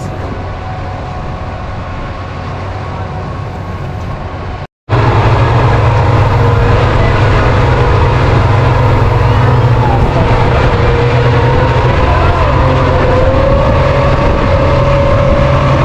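Boat engine running steadily, heard from on board, with a deep hum and a steady whine. It cuts out briefly about five seconds in and comes back louder, its whine rising slightly near the end.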